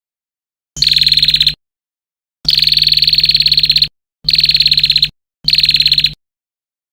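A songbird's rapid rattling trill ('tembakan' burst), repeated four times in bursts of about a second, the third one longest.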